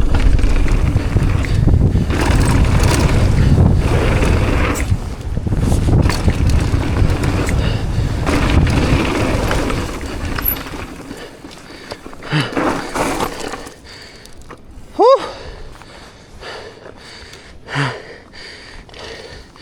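Mountain bike on a dirt trail with heavy wind noise on the camera microphone: a loud, steady rumble for the first half that drops away to scattered clicks and rattles. About three quarters of the way in there is one brief sharp squeal.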